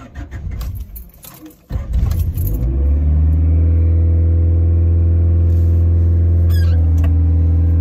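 Honda Civic VX's D15Z1 1.5-litre four-cylinder engine starting cold: a few clicks, then it cranks and catches about two seconds in. It settles into a steady, high idle near 2,000 rpm that keeps creeping up, the climbing cold idle that the owner finds a little high.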